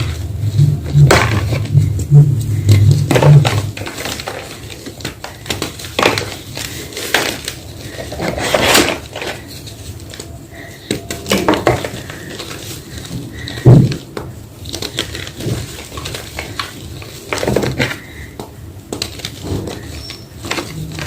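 Homemade gym chalk block being crushed, crunching and crumbling in irregular bursts a second or a few seconds apart. A low hum runs under the first few seconds and stops about four seconds in.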